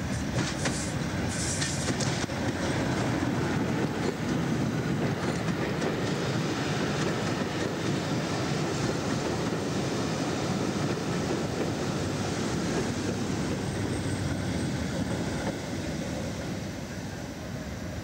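A Hastings diesel-electric multiple unit running into the platform and past close by: a steady, loud noise from its wheels and coaches, with a few sharp clicks early on, easing off near the end.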